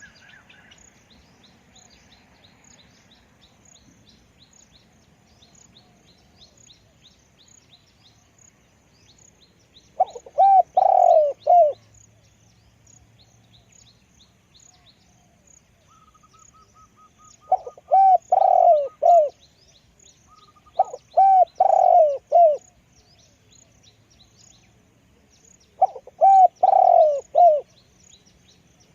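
Spotted dove cooing in four loud phrases of several notes each, spaced a few seconds apart, with faint high chirping of small birds behind.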